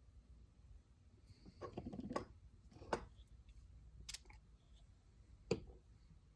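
A few light clicks and taps of small parts being handled: a short rattly cluster about a second and a half in, then three single sharp clicks spaced a second or so apart.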